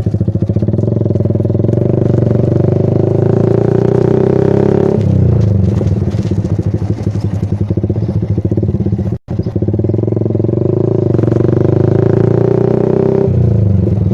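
Yamaha Vixion's single-cylinder engine running through a Kou Mahachai aftermarket racing exhaust, with a pulsing note that rises and holds, then drops back, twice. A brief dropout about nine seconds in.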